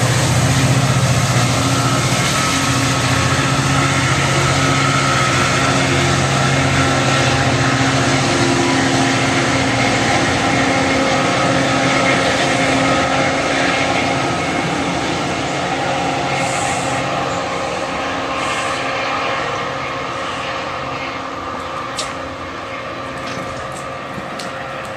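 Metrolink commuter train, a diesel locomotive hauling bilevel passenger cars, running past and pulling away. A steady diesel engine drone is mixed with wheels rolling on the rails, and the sound slowly fades as the train recedes. There is one sharp click near the end.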